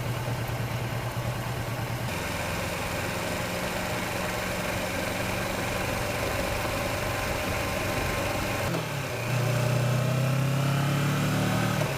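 Kawasaki Versys motorcycle engine running steadily under way, its pitch shifting about two seconds in. Near the end it dips briefly, then runs louder with the pitch rising as the throttle opens.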